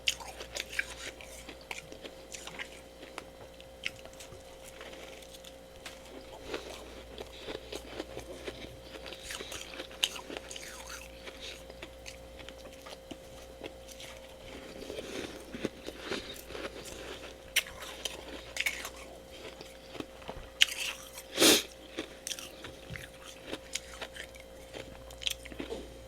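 Close-up crunching of freezer frost: soft, powdery ice grown with a humidifier, bitten and chewed in many short crackly bites, one louder crunch about three quarters of the way through. A steady low hum runs underneath.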